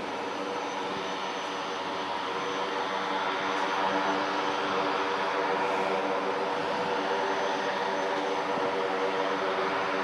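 Beechcraft King Air C90's twin Pratt & Whitney PT6A turboprops, a steady propeller drone with a set of even tones over a rushing noise, growing a little louder over the first few seconds as the aircraft lands.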